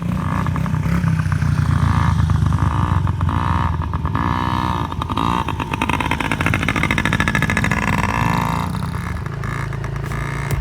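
Small dirt bike engine running, its pitch rising and falling several times as it is revved during the ride.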